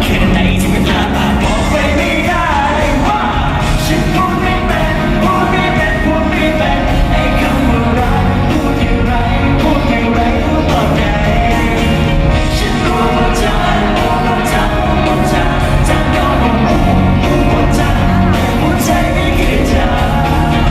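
Live pop band playing a song with a singer, loud and continuous.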